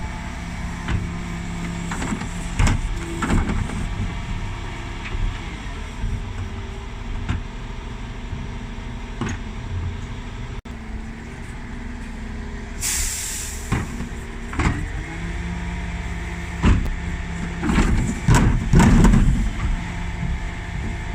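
Dennis Elite 6 bin lorry running steadily while its Terberg bin lift empties wheelie bins, with scattered knocks and clattering as bins are handled, busiest near the end. A sharp air-brake hiss comes about 13 seconds in.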